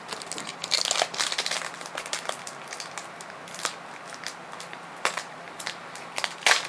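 Foil Pokémon booster pack wrapper crinkling and crackling as it is handled and pulled at to open it, with a louder crackle about six and a half seconds in; the pack is sealed tight and hard to get open.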